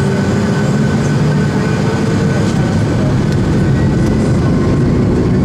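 Boeing 757 jet engines running: a loud, steady rumble with a thin whine above it.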